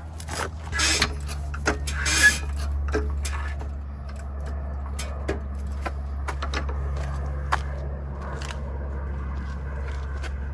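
A car jack being set under a car and raised, with scattered metallic clicks and scrapes, over a steady low hum that starts just under a second in.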